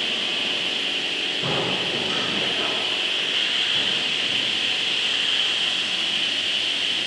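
A woodworking machine running with a steady hiss. About a second and a half in, a rougher, fuller sound joins for a second or two, then settles back.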